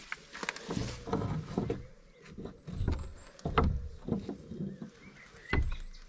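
Irregular footsteps and knocks on rough ground and debris, a thud every half second or so, with a few short bird chirps near the end.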